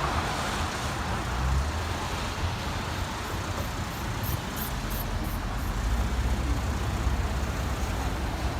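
Steady rumbling noise of a moving vehicle, with a short run of faint high ticks in the middle.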